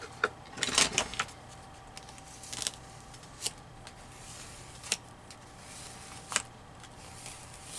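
Paper being handled at a craft table: rustling and crinkling, with a few sharp light taps and clicks, most of them in a cluster near the start and then single ones every second or so.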